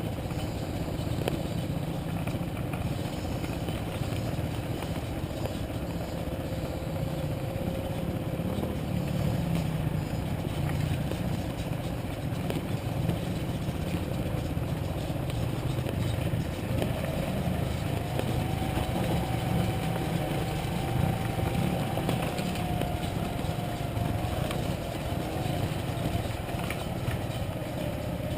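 Motorcycle engine running steadily while riding, with a faint whine that steps up in pitch about two-thirds of the way through.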